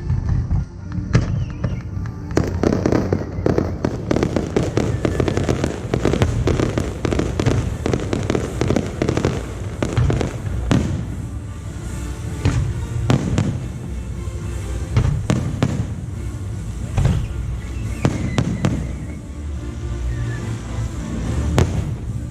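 Aerial fireworks going off in a dense, continuous barrage: many sharp bangs and crackles one on top of another over a deep rolling rumble.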